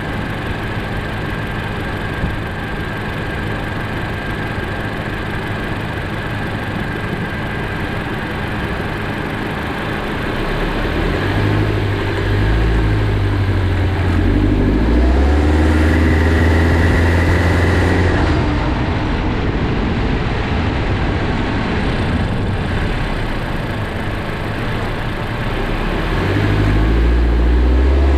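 Honda Jade 1.5 turbo inline-four heard close up from the accessory-belt side of the engine bay: idling, then pulling harder about halfway through with rising engine pitch and a high whirring hiss over it, easing off, then picking up again near the end. The hiss is the 'shuru-shuru shaa' noise that comes on under strong acceleration from low speed, which the owner suspects is a slipping accessory belt or a pulley bearing.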